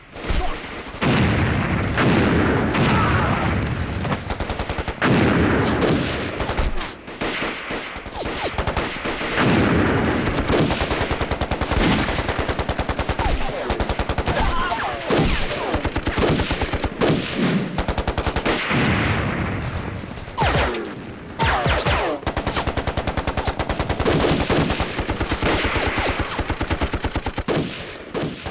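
Gunfire in a war-drama battle: long streams of rapid machine-gun fire mixed with rifle shots, broken by a few brief pauses.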